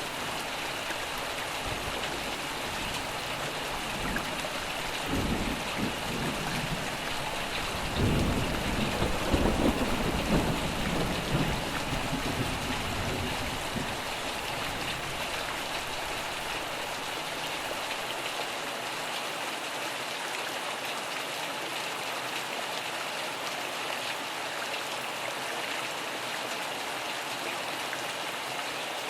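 Steady rain falling, with a short rumble of thunder about five seconds in and a louder, rolling peal of thunder from about eight seconds that fades away over several seconds.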